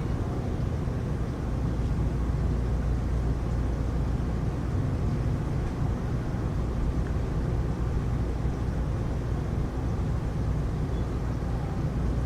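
Heavy rain heard as a steady, even rushing noise, heaviest in the low end, with no breaks or claps of thunder.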